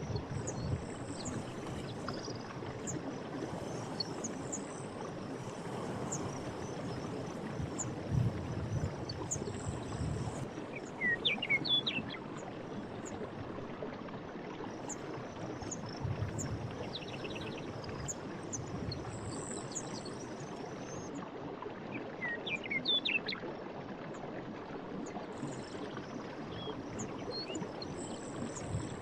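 Night forest ambience: a steady rushing bed of noise with occasional low swells, insects trilling high and steadily throughout, and a bird giving short clusters of chirps twice, about a third of the way in and again past two-thirds.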